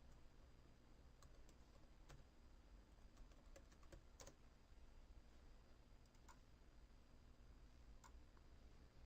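Faint, scattered computer keyboard keystrokes and clicks at irregular intervals, as when logging into a program, over a low steady hum.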